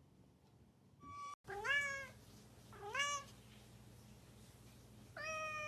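Domestic cat meowing three times, each meow rising and then falling in pitch, the last one the longest.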